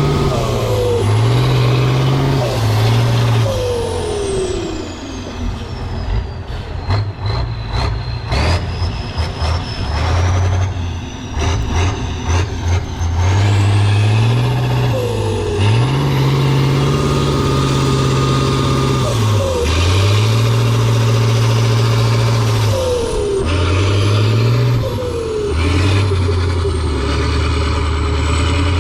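Heavy off-road trial truck's engine revving hard, its pitch rising and falling again and again as the driver works the throttle, with a run of sharp knocks and clatter about a third of the way in.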